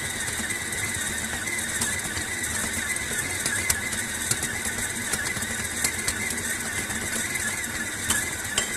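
Electric kitchen mixer motor running steadily with a constant whine and scattered light clicks, working shortcrust pastry dough as the water is mixed in.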